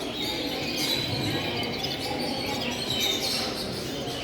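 Many caged show birds chirping and calling over a steady background din.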